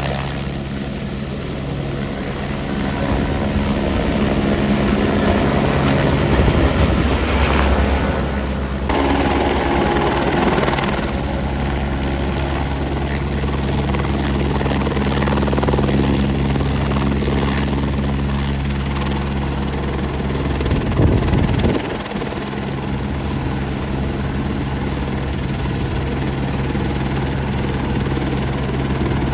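Helicopter running with a steady low hum from its engine and rotor.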